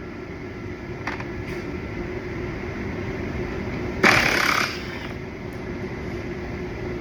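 Plastic bumper parts being handled during assembly: a couple of light clicks, then about four seconds in a short, loud rasp of plastic lasting under a second, over a steady hum.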